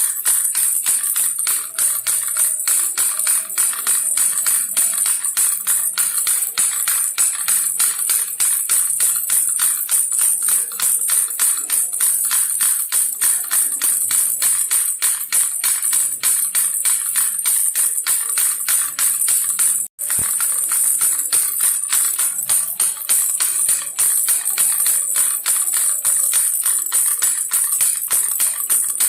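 Baby rattle shaken continuously in a fast, even rhythm, a bright jingling rattle. It breaks off for an instant about two-thirds of the way through, then carries on.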